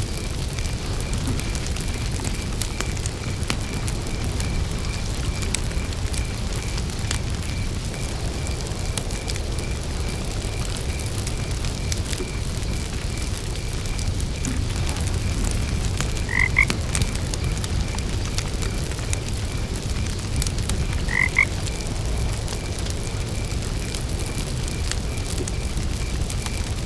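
Campfire crackling over a steady low rumble, with crickets chirping in an even pulsing trill throughout. Two short frog croaks sound past the middle, about five seconds apart.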